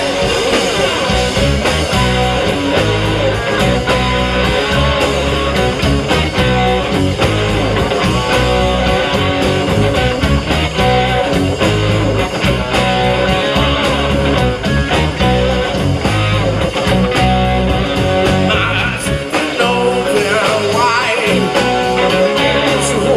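Live rock band playing loud: electric guitar over bass and a driving drum beat. The bass and drums briefly thin out about nineteen seconds in, then come back.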